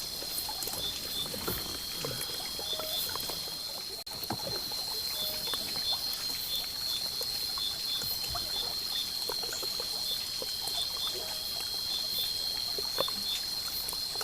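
Night ambience by a river: a steady, high, shrill insect drone with a repeating chirp just below it, over faint trickling water and scattered small clicks. There is a brief dropout about four seconds in.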